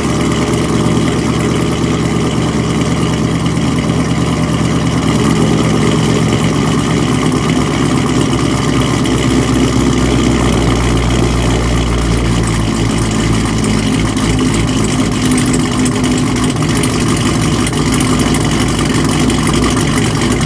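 Cammed LS V8 idling loud on a cold start through Kooks long-tube headers with no catalytic converters and no mufflers, with a popping noise whose cause the owner cannot place.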